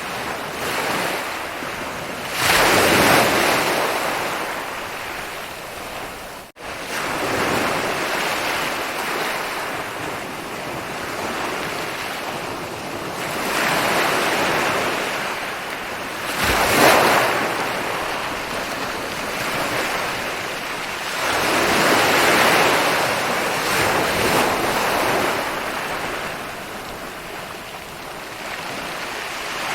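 Ocean waves breaking on a beach, the wash rising and falling in swells every few seconds. The loudest break comes a little past halfway through. There is one brief dropout a little after six seconds in.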